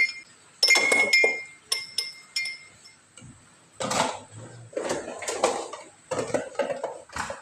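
Glasses and plates clinking and clattering as they are handled and set down, the first few knocks ringing clearly, the later ones duller.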